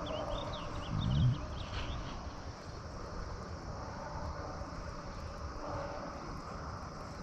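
Steady low hum, with a bird chirping a quick series of short high notes in the first two seconds.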